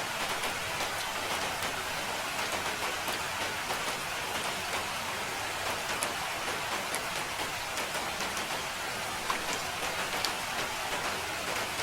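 Steady rain falling, an even hiss with many scattered individual drops ticking.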